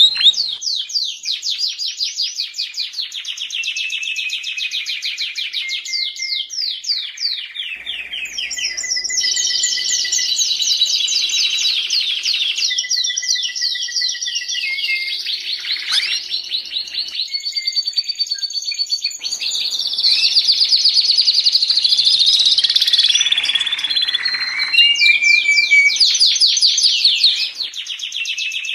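Canary singing a long, continuous song of rapid trills and rolling phrases, each made of quick pitch sweeps repeated many times a second, high-pitched, with only brief breaks and a louder stretch in the last third.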